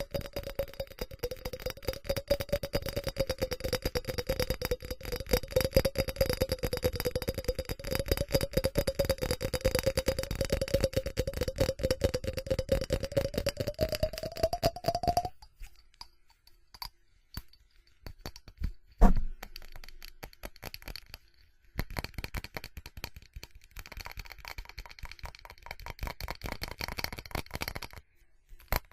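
Fast, dense tapping on ceramic with a ringing tone from the ceramic, stopping about halfway. Then sparser taps, one loud knock, and lighter tapping or scratching on the ceramic near the end.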